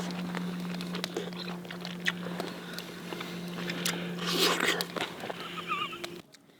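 Someone eating ramen noodles: chewing with small clicks and mouth noises, and a longer noisy patch about four seconds in. A steady low hum runs underneath and stops abruptly near the end.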